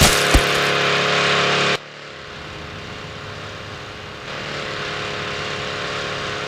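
A motor running loudly with a steady hum, with two thumps right at the start. It cuts off suddenly just under two seconds in, leaving a quieter steady rushing noise that grows somewhat louder about four seconds in.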